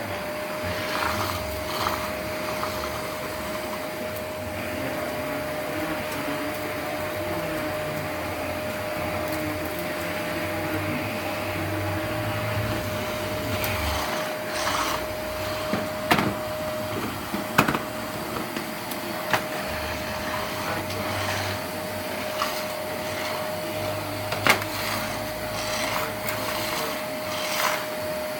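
Vacuum cleaner running with a steady motor whine over a rushing hiss, with a few sharp clicks and knocks in the second half.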